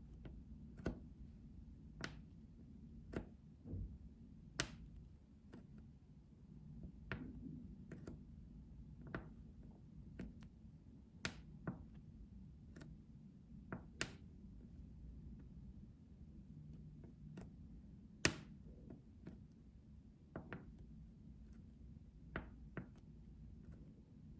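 Soft, irregular taps and clicks from ASMR trigger objects, close to the microphone, about one a second, with one sharper click near the end. A faint low hum sits underneath.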